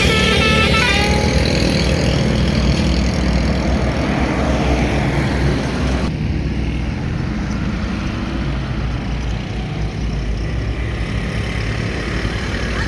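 Busy road traffic: trucks, buses and motorcycles passing, with steady engine rumble and tyre noise. A stepped multi-note tone fades out in the first second, and the higher hiss drops away about halfway through.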